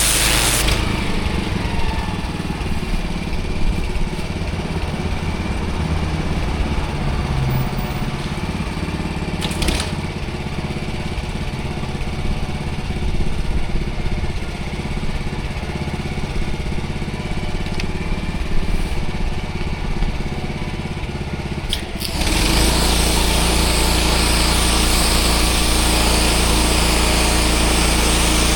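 Pressure washer engine running steadily with the spray shut off. About 22 seconds in, the high-pressure water jet opens again and a loud hiss of spray comes in over the engine, which grows louder.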